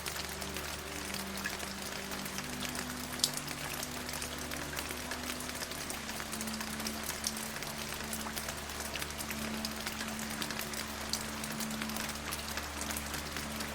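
Steady rain falling, an even hiss with individual drops ticking through it, over a soft music drone of low held notes that shift every few seconds.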